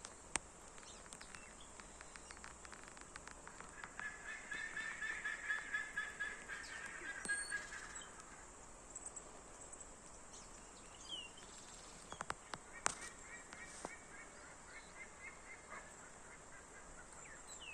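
Birds calling: a rapid, honking series of calls about four seconds in lasting some four seconds, then a fainter series later, over a steady high hiss.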